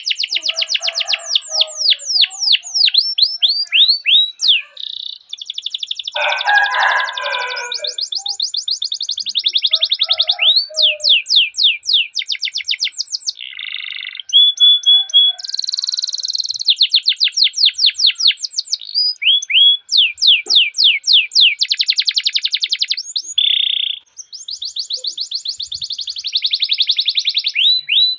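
Domestic canary singing a long rolling song: fast trills of rapidly repeated chirps, each phrase a different note type, switching every second or two with hardly a break. A lower, buzzier passage comes about six seconds in.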